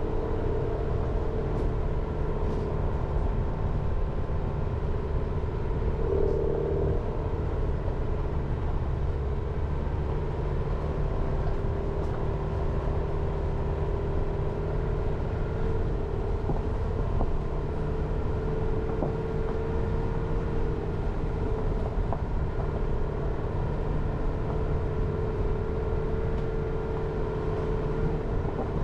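Jeep Renegade driving steadily: continuous engine and road rumble with a steady hum, which briefly swells about six seconds in.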